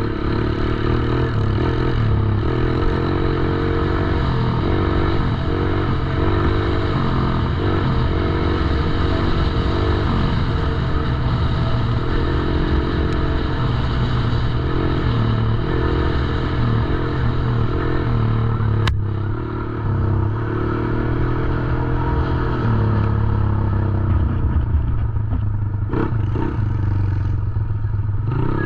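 Small 110cc four-stroke dirt bike engine running, its pitch rising and falling as it is ridden, with a sharp click about two-thirds of the way through.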